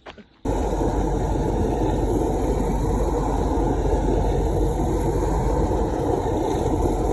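Steady vehicle engine and road noise that starts abruptly about half a second in and runs on evenly.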